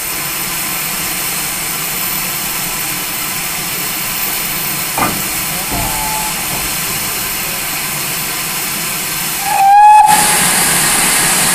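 Steam locomotive hissing steadily as it stands in steam, with one short, loud whistle blast near the end.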